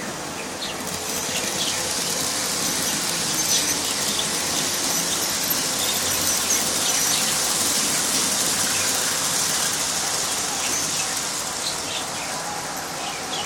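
Miniature train running on its rails: a steady high-pitched hiss and wheel squeal that swells about a second in, with scattered light clicks from the wheels on the track.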